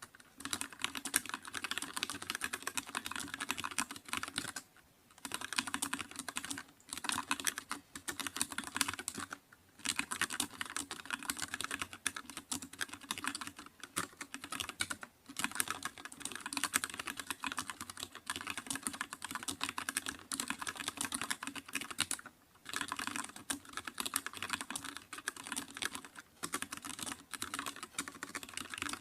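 Computer keyboard being typed on in fast, continuous runs of key clicks, broken by a few brief pauses.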